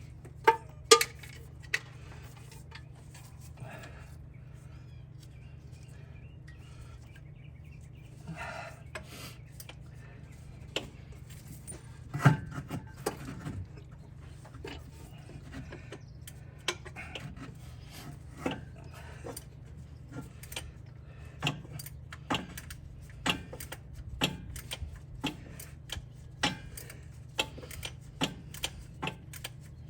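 Scattered metallic clicks and knocks of hand tools on the engine, a wrench or socket being worked, with a steady low hum underneath. The clicks come about once a second in the later part, with one louder knock about twelve seconds in.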